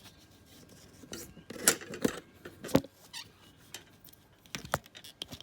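Plastic clicks, knocks and light scraping as a folding emergency warning triangle is handled and its reflector pieces and stand are moved into place, with a few sharp clicks.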